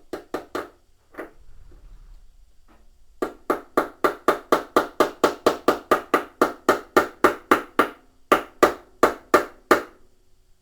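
Hammer blows driving a part into place on a washing machine's tub: a few single strikes, then a long fast run of about four blows a second with a short break, each blow ringing briefly.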